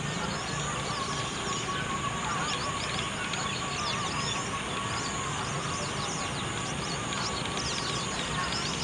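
Dense, continuous chatter of a flock of birds: many short, high chirps, each dropping in pitch, overlapping without a break.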